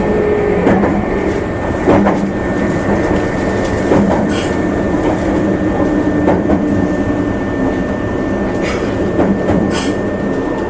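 Meitetsu limited express electric train running, heard from on board: a steady rumble of wheels on rail with sharp clicks every couple of seconds and a faint steady high tone.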